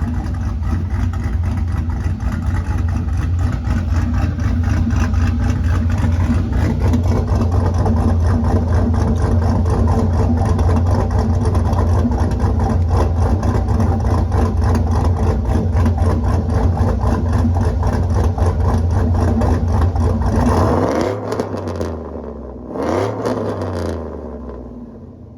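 Pickup truck's engine idling steadily through its newly installed aftermarket exhaust with 3½-inch tips, a deep low drone. Near the end it is revved twice, each rev rising and falling, and then the sound fades out.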